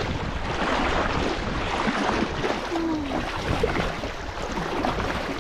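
Wind rumbling on the microphone over a steady wash of ocean surf, with a brief low falling sound about three seconds in.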